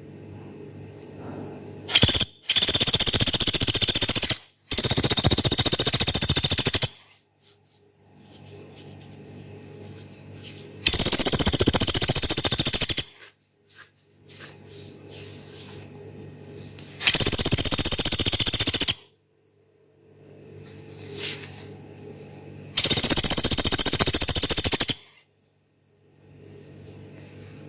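Pelatuk beras woodpecker giving long, harsh, rapid rattling calls: five bursts of about two seconds each, the first two back to back, over a faint steady background.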